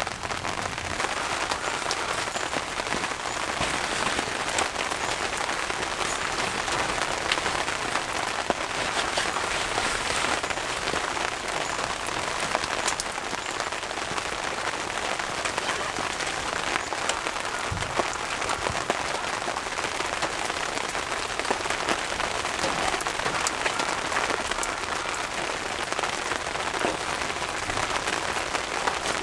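Steady rain falling, with many separate drop hits ticking through an even hiss.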